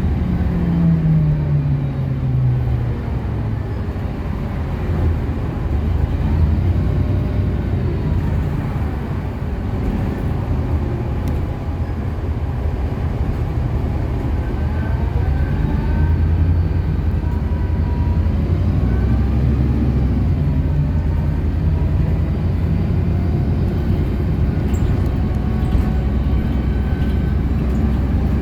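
City bus running along the road, its engine and drivetrain humming steadily. The engine's pitch falls over the first few seconds as the bus slows, and a fainter whine rises and falls later on.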